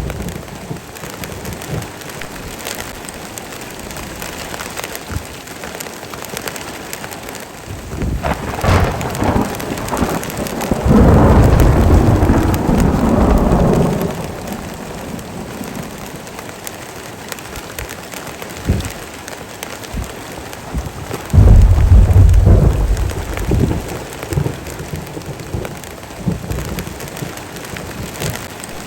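Heavy rain falling steadily, with two loud rolls of thunder: the first about eleven seconds in, preceded by crackling, lasting about three seconds; the second about twenty-one seconds in, lasting about two seconds.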